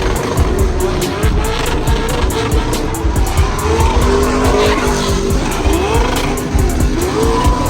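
Truck doing a burnout: tires squealing as they spin on pavement over a hard-running engine, with several short rising glides in pitch.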